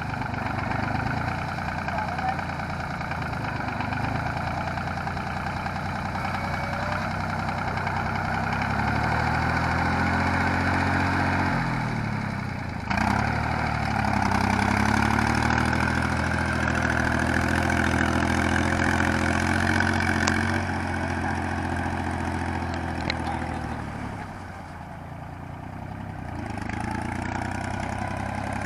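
Yanmar YM3000 tractor's diesel engine running as it levels a paddy field. It speeds up about ten seconds in, drops briefly near the middle, picks up again, then eases off and goes quieter near the end.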